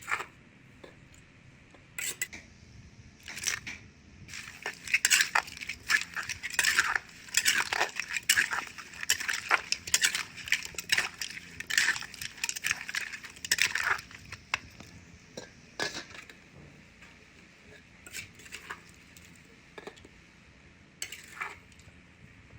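Utensils clinking and scraping against a mortar and dishware while seafood papaya salad is mixed and dished up: a run of quick clicks and scrapes, busiest through the middle and sparser near the end.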